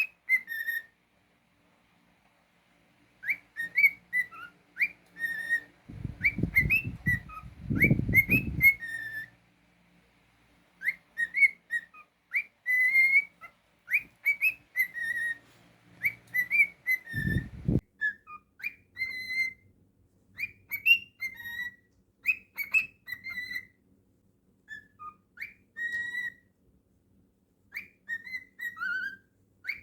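Cockatiel whistling a song in short phrases of quick rising and falling notes, broken by short pauses. Twice a low rumble of noise cuts in, once for about three seconds and once briefly later.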